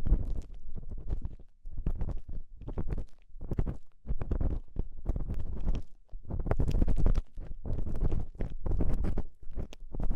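An ear pick scratching and rubbing inside a binaural microphone's ear, close up, with crackling scrapes over a deep rumble. It comes in irregular strokes with brief pauses between runs.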